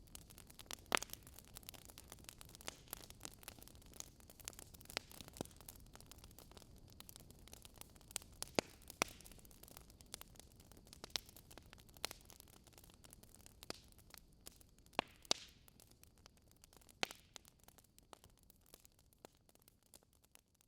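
Wood campfire crackling, with irregular sharp pops and snaps over a soft hiss of burning, fading out near the end.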